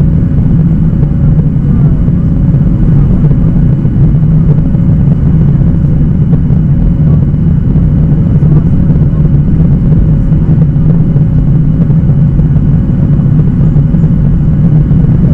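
Steady, loud cabin drone of a Boeing 737-800's CFM56 turbofan engines and airflow, heard from inside the passenger cabin. Under the low rumble there is a faint steady hum.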